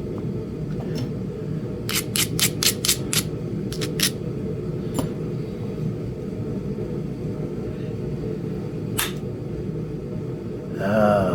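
Sharp taps of indirect-percussion flintknapping: a hammer striking a punch set on the edge of a Flint Ridge chert biface. There is a quick run of about six taps, then a few single taps, over a steady low rumble. A short pitched hum comes near the end.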